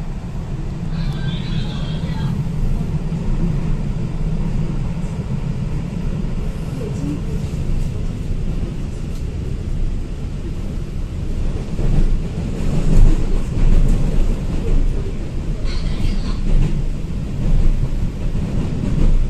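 A train running on the rails: a steady low rumble, growing louder about twelve seconds in, with brief high squeaks near the start and near the end.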